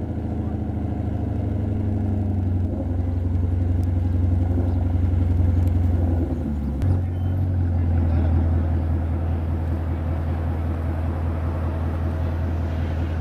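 2015 Ford Mustang GT's 5.0-litre V8 engine running on track, growing louder over the first six seconds, dipping briefly with a short sharp blip just before seven seconds, then running steadily.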